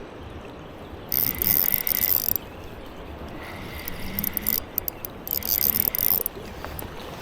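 Shimano Vanford spinning reel being cranked in three spurts of about a second each, whirring and rattling, as a hooked steelhead is reeled in.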